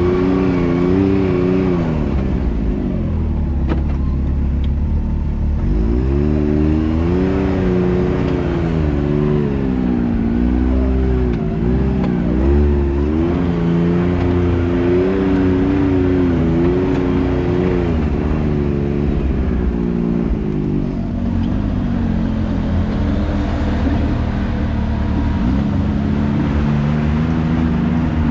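Can-Am Maverick X3's turbocharged three-cylinder engine working under throttle on a rough trail. The revs rise and fall over and over, with deeper drops off the throttle about three seconds in and again near twenty-one seconds.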